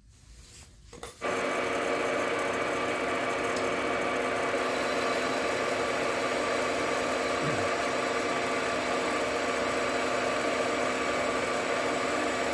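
JFMT metal lathe starting up about a second in and then running steadily, its drive humming with several steady tones, while it takes a light finishing cut of about 4 thou on the stud.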